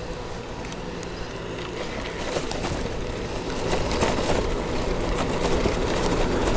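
Road traffic: a motor vehicle's engine running steadily, growing louder from about halfway as it draws near.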